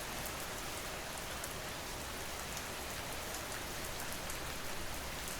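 Steady ambient rain falling on a surface, an even hiss with faint scattered drop ticks.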